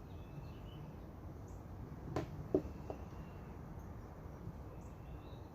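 Three light clicks a little over two seconds in, from metal parts of an ATV recoil starter being handled and fitted, over steady low background noise.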